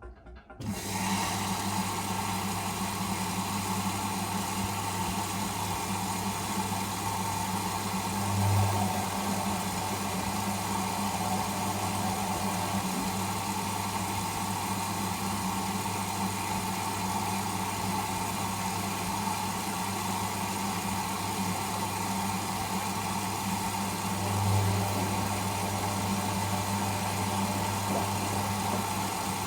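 Whirlpool Indiana 1400 washing machine running with a steady motor hum. The hum sets in abruptly just under a second in and swells briefly twice.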